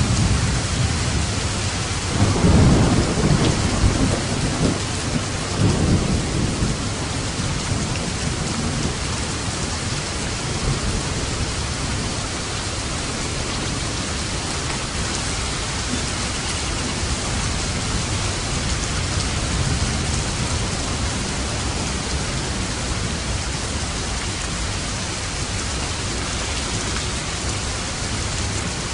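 Steady rain falling, with a low roll of thunder rumbling about two seconds in and fading out a few seconds later.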